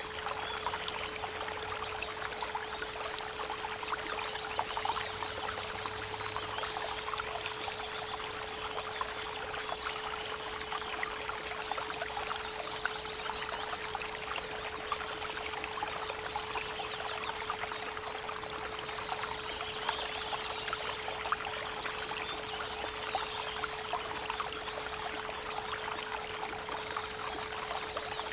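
Creek water running and splashing steadily, with a steady 432 Hz pure tone humming underneath. Birds give short high trills a few times, about nine seconds in and again near the end.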